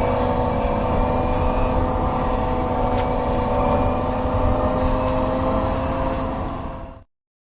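Electric drive motor and inverter of an MG5 electric car, recorded in the motor bay, giving a steady whine of several tones with a thin high tone above and road rumble beneath. The pitch creeps up slightly near the end, then the sound cuts off abruptly about seven seconds in.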